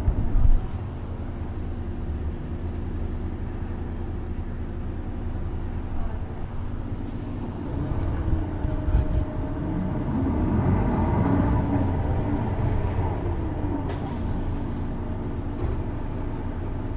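Isuzu Erga city bus's diesel engine running, heard from inside the cabin, with a loud thump right at the start. From about eight seconds in it grows louder for several seconds, with a pitched whine rising and falling over it. This bus has a distinctive abnormal noise from its engine.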